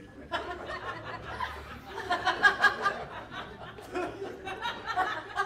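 Live audience laughing, many voices together. The laughter rises to a peak about two to three seconds in, then carries on more loosely.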